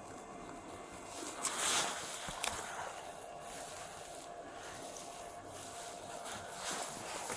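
Irregular rubbing and scraping noises with a few light clicks, louder from about a second and a half in.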